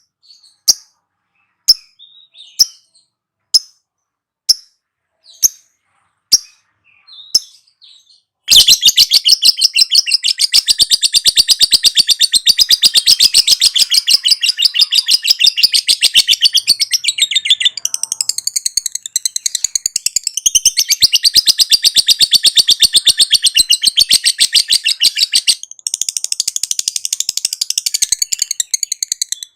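Lovebird calling: sharp single chirps about once a second, then about 8 seconds in it breaks into a long, rapid, unbroken chattering trill, the 'ngekek' song. The trill stops briefly near the end, then starts again.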